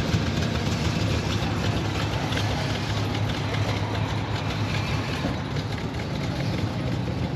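A vehicle engine idling steadily, a low even hum with outdoor crowd noise around it.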